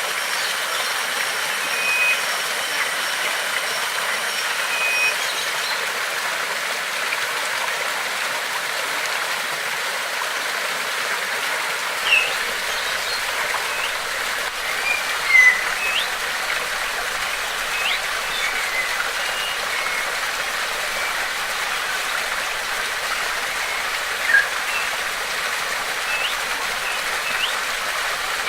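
Flowing water rushing steadily, with birds giving scattered short chirps and quick rising whistles over it.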